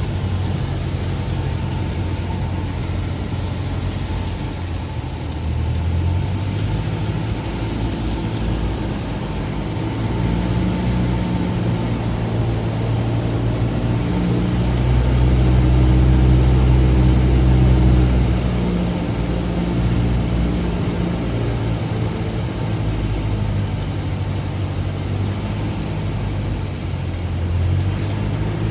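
Cessna 172 single-engine light aircraft's piston engine and propeller running steadily on a landing approach. The drone's pitch shifts several times and gets louder for a few seconds about halfway through.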